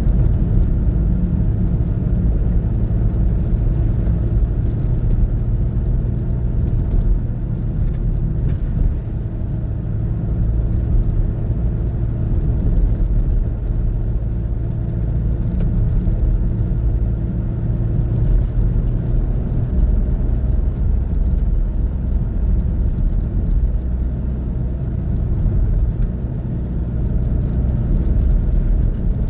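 Car driving at a steady pace: a low, even rumble of engine and road noise.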